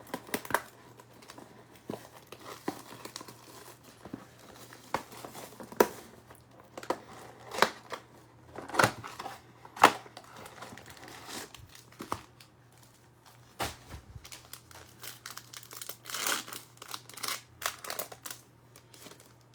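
Plastic wrapping on a trading-card box and its packs being torn open and crumpled, in irregular crackles and short rips.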